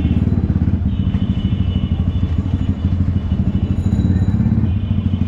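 Yamaha R15 motorcycle's single-cylinder engine running steadily at low revs, with a fast, even pulse, as the bike rolls slowly along.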